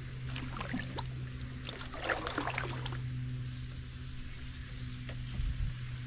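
Kayak paddling through water: two clusters of splashing and scraping, about half a second in and again about two seconds in, over a steady low hum.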